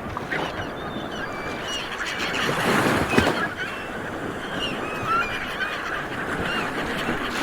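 A crowd of seabirds calling all at once: many short, overlapping honking calls over a continuous din, swelling louder about three seconds in.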